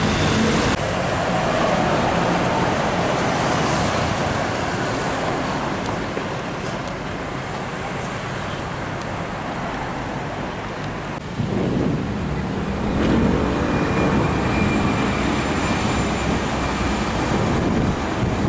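Road traffic passing steadily. A vehicle's engine comes up louder about eleven seconds in and stays loud.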